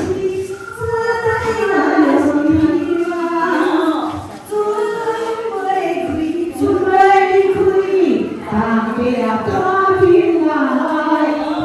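Women's voices singing a slow, chant-like melody in unison, with long held and wavering notes.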